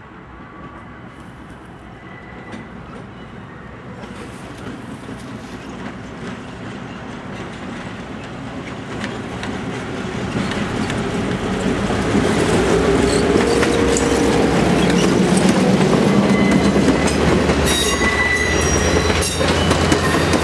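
EMD FP7 diesel locomotive #6133, with its 16-cylinder two-stroke 567 engine, approaching and passing at the head of a passenger train, the sound growing steadily louder over the first twelve seconds or so. Once the locomotive is by, the passenger coaches' wheels clatter over the rail joints, with a few brief high wheel squeals.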